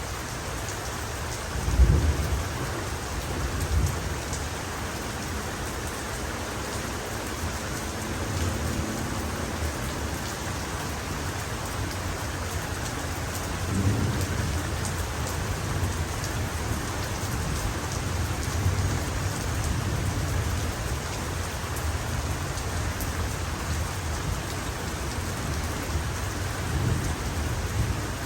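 Heavy rain falling steadily, with thunder rumbling again and again. A sharp, loud clap of thunder comes about two seconds in, and further low rolls build near the middle and near the end.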